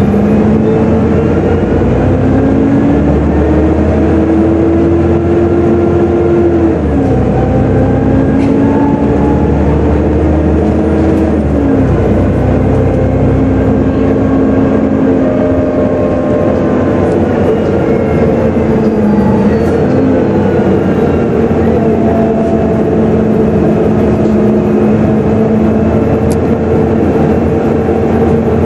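Volvo B7TL bus heard from on board: its six-cylinder diesel and gearbox pull up through the gears with a loud hoover-like whine. The pitch climbs and then drops sharply at two gear changes, about 7 and 12 seconds in, before settling into a steadier cruise.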